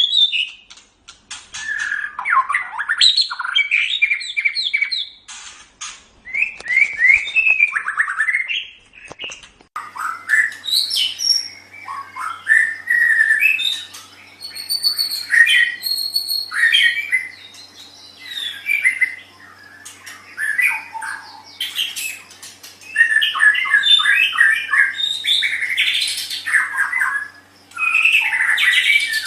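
White-rumped shama singing: a run of varied phrases of whistles, quick trills and harsh chattering notes, broken by short pauses. About ten seconds in, a faint steady hum begins underneath.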